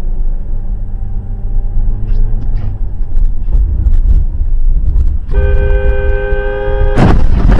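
Car engine and road noise rumbling low and steady. About five seconds in, a car horn blares for under two seconds, and it is cut off by a sudden loud bang.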